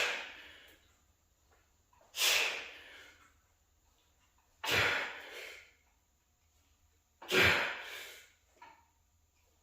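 A man's sharp, forceful breaths out, timed to his reps of straight-bar skull crushers: four hard bursts of breath about two and a half seconds apart, each trailing off quickly.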